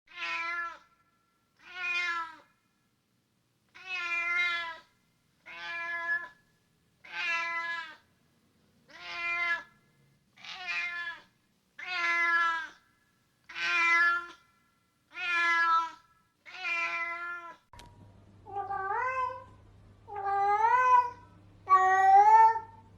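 A domestic cat meowing over and over, about eleven meows each about a second long and a second and a half apart. Near the end the recording changes to a different cat with a low hum behind it, whose meows rise in pitch and get louder.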